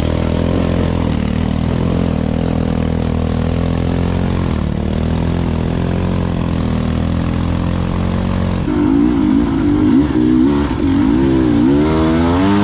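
Two-stroke dirt bike engine running at a steady pitch. About two-thirds of the way through it gets louder and the revs climb and fall again and again as the throttle is worked.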